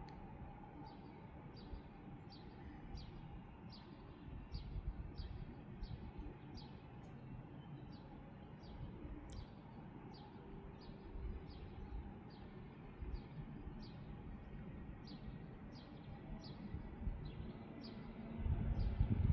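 A songbird repeating a short, high, down-slurred chirp, about one and a half times a second, over a low outdoor rumble. Near the end the low rumble grows louder as the approaching train draws near.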